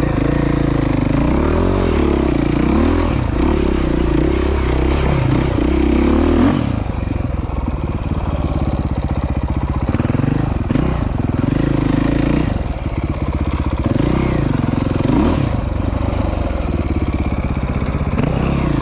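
Dirt bike engine running, revved up and down several times as the throttle is opened and eased off.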